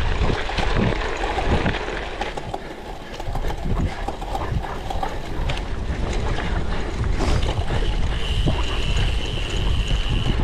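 Cyclocross bike ridden hard over rough ground: wind buffeting the microphone and the bike rattling and knocking over bumps. A steady high whine sounds for about two seconds near the end.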